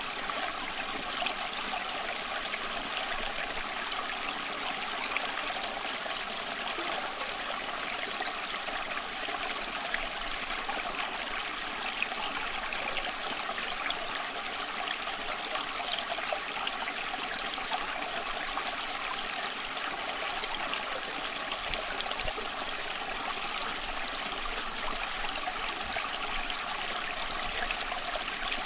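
Small stream flowing and trickling over stones, a steady bubbling rush of water.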